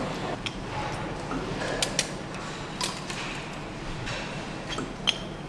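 Engine-assembly workshop ambience: a steady low machinery hum with scattered sharp metallic clicks and clinks from parts and hand tools being handled.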